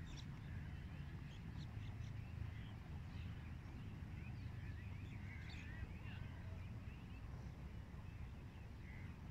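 Birds chirping and calling faintly, many short calls overlapping, over a steady low rumble.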